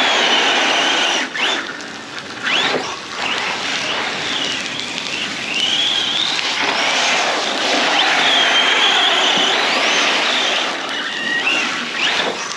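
Arrma Big Rock 6S RC monster truck's brushless motor whining, its pitch rising and falling repeatedly as the throttle comes on and off, over a steady wash of noise from the driveline and wet ground.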